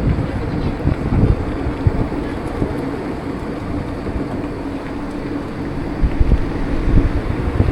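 Wind buffeting the microphone of a moving bike in gusty low rumbles, over steady road and traffic noise, with a faint steady hum that fades out partway through.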